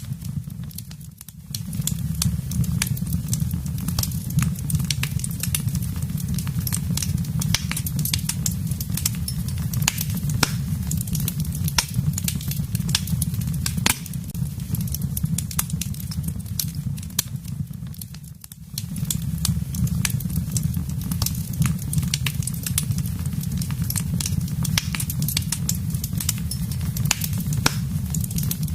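Wood fire burning in a fireplace: dense, irregular crackles and pops over a steady low rumble of the flames. The sound briefly drops away twice, about a second in and about eighteen seconds in.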